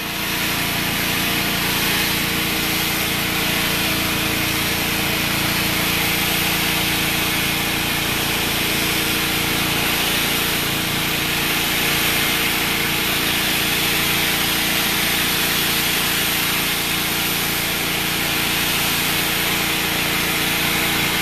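Generator engine running loudly and steadily at constant speed, with a steady hiss over it from the pressure-washer spray.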